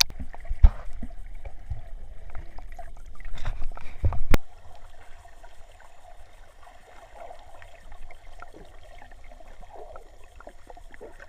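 Shallow seawater trickling and lapping, with small clicks. There is a sharp thump just under a second in, and a louder thump after a brief swell about four seconds in.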